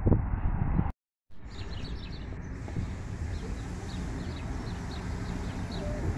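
Electric locomotive hauling passenger coaches past, a steady low rumble on the track, with small birds chirping over it. Louder track noise from a first train breaks off in a short silence about a second in.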